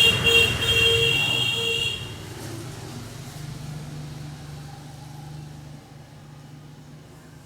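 A vehicle horn sounding for about two seconds amid traffic noise, then stopping, leaving a quieter steady low hum.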